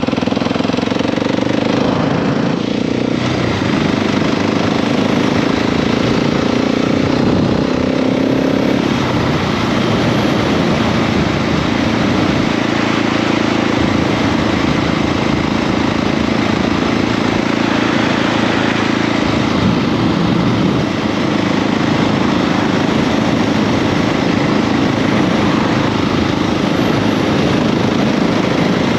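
KTM 690 SMC R's single-cylinder engine under way. It rises in pitch over the first several seconds as the bike speeds up, then holds a steady note, under a loud, steady rushing noise.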